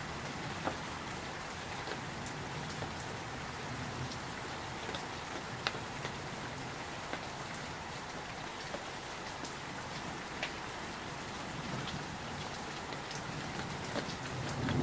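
Steady summer rain falling, with scattered sharp drop ticks standing out from the even hiss. In the last second a low rumble of thunder begins to swell.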